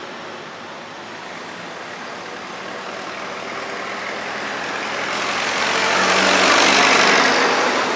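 Vintage tractor driving past: its engine and running noise grow louder, peak about seven seconds in, then begin to fade.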